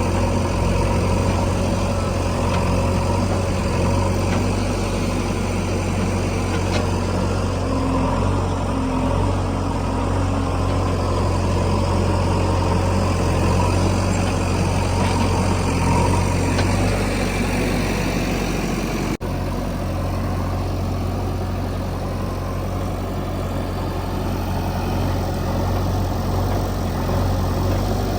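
Heavy diesel engine running steadily at a low, even speed, with a brief dropout about two-thirds of the way through.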